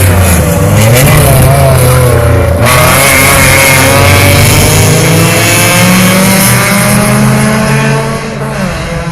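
Touring race car engines running hard: the pitch dips and wavers briefly near the start, then climbs steadily as the cars accelerate, and the sound drops off slightly near the end.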